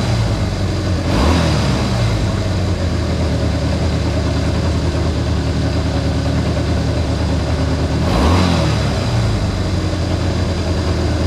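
Honda CA160 Benly's small four-stroke twin engine idling steadily, blipped up on the throttle and back to idle twice, about a second in and about eight seconds in. It is running well after the carburettor's float level was set and its clogged pilot and main jets were cleared.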